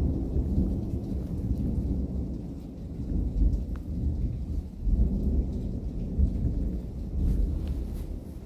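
Thunder rumbling continuously during a thunderstorm, a deep rolling rumble that swells around the middle, with rain and a few scattered drop ticks.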